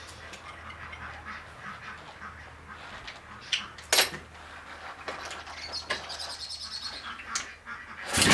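Faint, scattered bird chirps with a few sharp clicks, and a quick run of chirps about three-quarters of the way through. A much louder sound cuts in right at the end.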